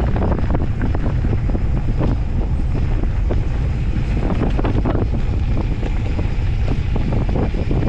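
Wind buffeting the microphone over a steady low rumble, with many short clicks and rattles: an off-road handcycle riding over a dirt mountain-bike trail.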